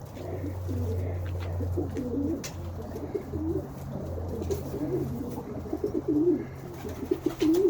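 Domestic pigeons cooing over and over, a run of wavering calls one after another, over a steady low hum, with a few sharp clicks scattered through.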